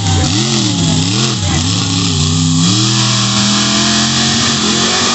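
Monster truck engine revving, the throttle blipped up and down several times in quick succession, then held at a steady high pitch.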